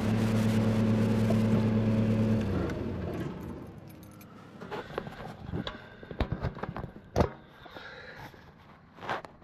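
Dump truck engine running steadily, then dying away about two and a half seconds in. After it, a scattering of sharp light clicks and rattles.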